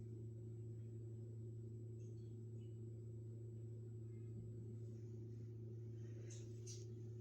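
A steady low hum with a few faint rustles over it, the loudest of them near the end.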